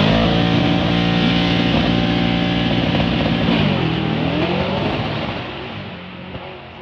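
Drag race car making a pass at full throttle: the engine revs up hard, holds high, drops in pitch and climbs again about four seconds in as it shifts gear, then fades as it goes away down the track.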